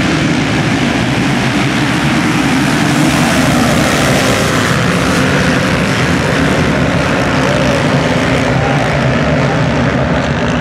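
Motocross bikes' engines running hard on the track, a loud, steady, overlapping drone of several bikes at high revs.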